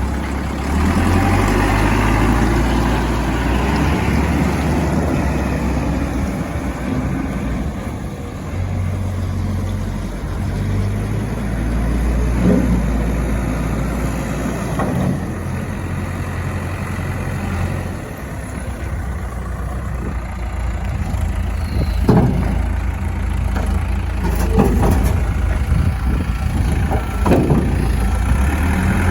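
Caterpillar 420F IT backhoe loader's diesel engine running steadily, with several sharp knocks at intervals in the second half.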